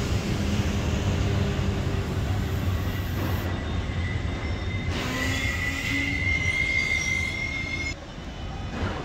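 Train rolling on the rails with a low rumble, and a high, thin wheel squeal that sets in a few seconds in, rises slightly in pitch and cuts off suddenly near the end.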